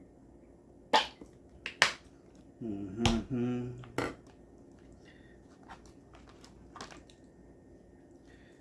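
A few sharp clicks and knocks from kitchen handling, about a second in, just before two seconds, and at four seconds, with a short wordless vocal sound between them and a few faint ticks afterwards.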